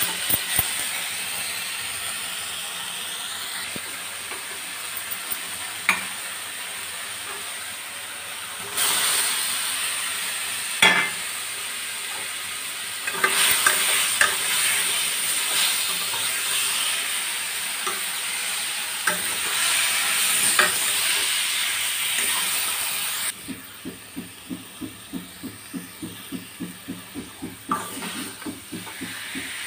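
Spice masala sizzling in an aluminium kadai while a metal spatula stirs and scrapes it, with boiled potatoes being turned in it, and sharp clicks of the spatula against the pan. From about two-thirds of the way through the sizzle drops and quick regular scraping strokes, about four or five a second, take over.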